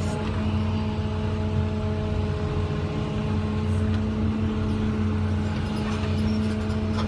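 Caterpillar 345 excavator's diesel engine running steadily, a constant hum with a steady whine over it.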